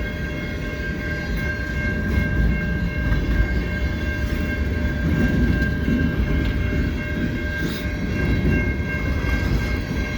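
Empty centre-beam flatcars of a freight train rolling slowly past: a steady low rumble of wheels on rail with a few faint clacks. A steady high-pitched ringing tone runs under it.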